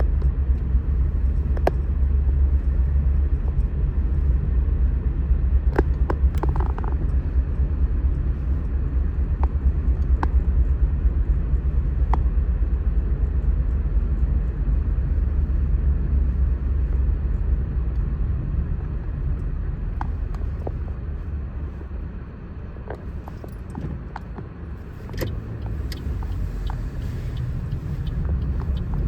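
Steady low rumble with a few faint clicks scattered through it; it eases off about three quarters of the way through, then builds again.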